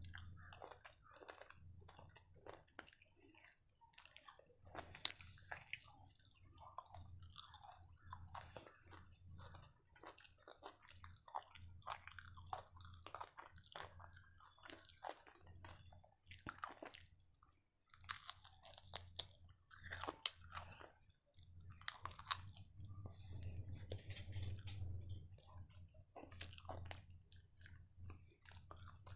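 A person chewing and biting chicken kebab meat off the bone, picked up close by a clip-on microphone: a steady run of irregular mouth clicks.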